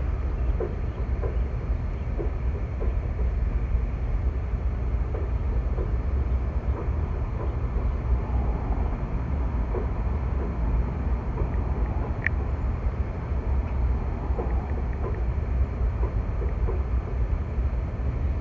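Train rolling past: a steady low rumble with scattered clicks and clunks of wheels on the rails, and one brief high squeal about twelve seconds in.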